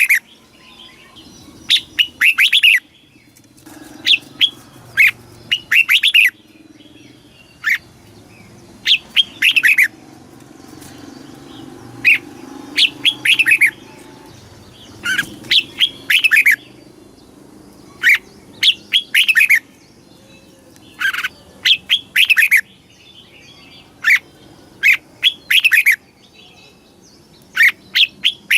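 Red-whiskered bulbul singing: short, loud phrases of quick falling whistled notes, repeated every second or two.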